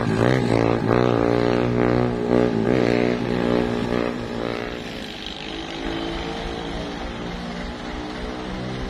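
A vehicle engine running hard, a strong, slightly wavering drone for about four seconds that then drops lower and quieter.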